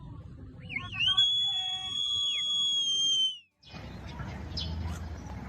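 A high-pitched whistle: it wavers at first, then holds one steady note for about two seconds and slides down as it stops abruptly. After a brief silence comes a noisy background with short high chirp-like sounds.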